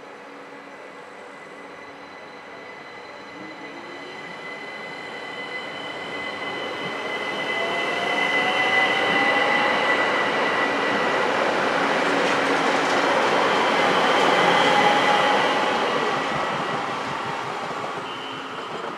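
Electric multiple-unit train pulling away and passing close by. Its motor whine rises in pitch as it gathers speed over steady high tones, and the wheel and rail noise builds to a peak about halfway through, then fades as it draws away.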